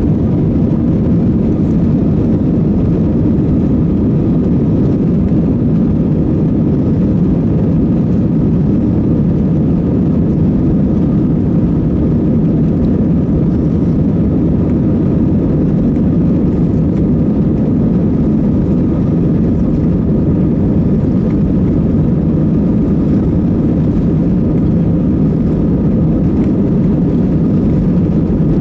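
Jet engines of an EVA Airways airliner running in a loud, steady low roar with faint higher tones over it; the level stays even throughout.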